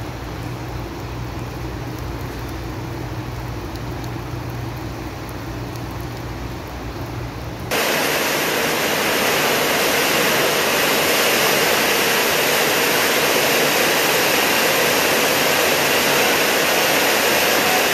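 Heavy rain falling, with a low steady rumble beneath it. About eight seconds in it switches abruptly to a louder, harsher wind-driven downpour.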